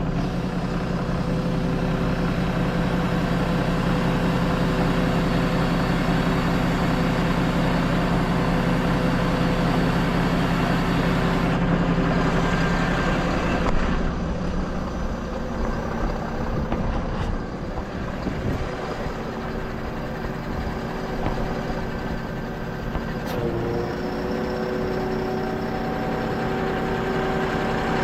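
A heavy truck engine running steadily under the recovery work, with a constant hum and steady tones. The low hum weakens about halfway through, and a higher tone shifts pitch a few seconds before the end.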